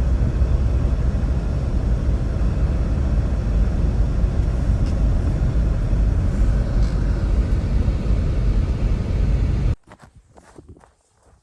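Blizzard wind blowing hard: a loud, steady, low rushing noise with no engine tone in it. It cuts off suddenly near the end, leaving a few faint clicks.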